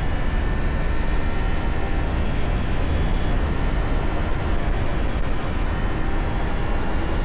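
Motorcycle cruising at steady speed, heavy wind rush buffeting the camera microphone over the engine and tyre noise.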